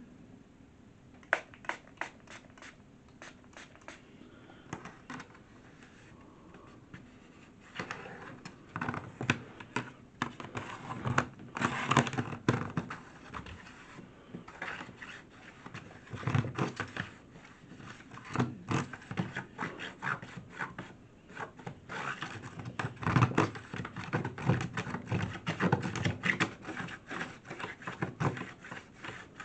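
Handling noise: scattered clicks, then busier scraping, scratching and rustling from about eight seconds in, as a new cleaning cloth is fitted onto a track-cleaning stick.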